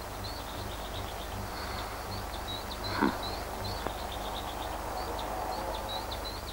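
Small birds chirping over and over in the background over a steady low hum, with one short falling sound about three seconds in.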